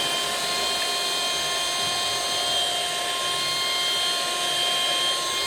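Cordless handheld vacuum cleaner running at full speed with a steady high-pitched whine, sucking up powdered sugar.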